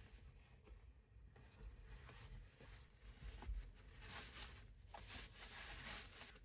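Faint rustling and light clicks of small objects being handled at close range, a little busier from about four seconds in.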